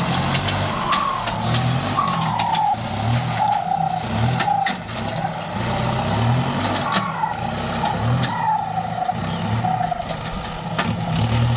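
Kubota tractor's diesel engine working under load while ploughing, with its note pulsing and a short falling whine repeating about once a second.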